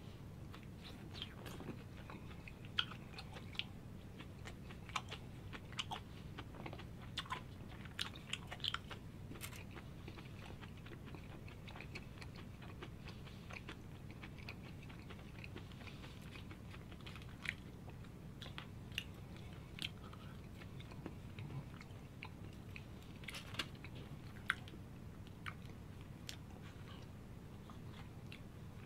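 Close-miked chewing: wet mouth clicks and smacks as food is bitten and chewed, coming in two busy spells, over a faint steady low hum.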